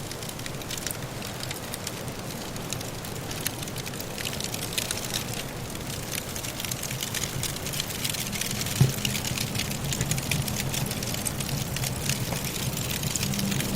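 Wood fire in a fireplace crackling, with many small pops over a steady hiss of wind from a soft snowstorm. A single louder pop comes about nine seconds in.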